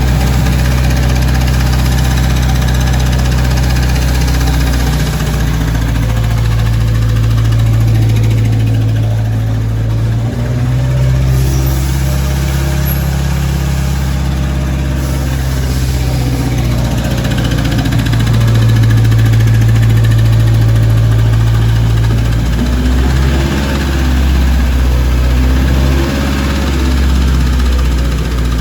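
A Toyota 2AZ 2.4-litre four-cylinder engine running on a test stand during its first start as a used engine, mostly at idle. Its speed shifts slightly up and down a few times.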